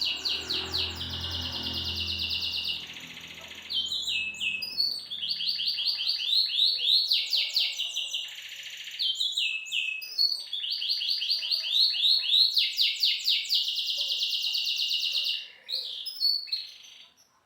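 A songbird singing a long, fast song of rapid trills and repeated high notes, broken by short pauses, stopping shortly before the end.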